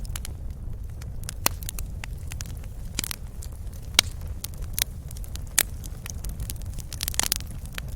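Wood fire crackling in a fireplace: a steady low rumble of the flames with scattered sharp pops, a quick cluster of several pops near the end.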